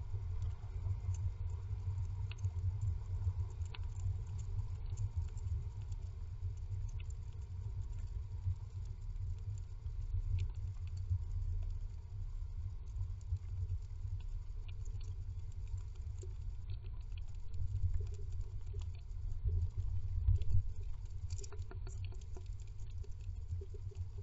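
Great tit shifting on its nest inside a wooden nest box: faint scratching, rustling of nest material and light taps, scattered and more frequent in the second half, over a steady low rumble.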